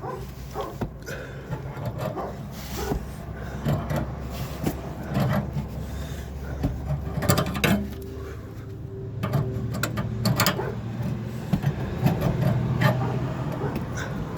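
Hand work on water heater plumbing fittings: irregular clicks, knocks and scraping over a steady low hum.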